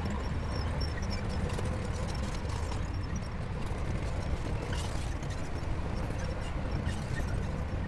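Heavy earthmoving machinery's diesel engine running steadily, a low rumble with faint ticks and clanks over it.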